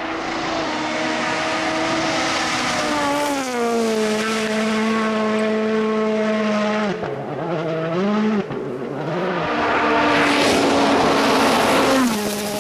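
World Rally Car's turbocharged 1.6-litre four-cylinder engine running hard. Its note holds steady, falls in pitch about three seconds in, wavers up and down around the middle, climbs again and falls once more near the end.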